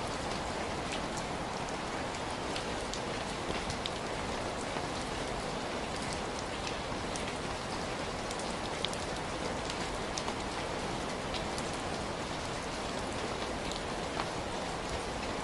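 Heavy rain falling steadily, an even hiss with many small, distinct drop impacts scattered through it.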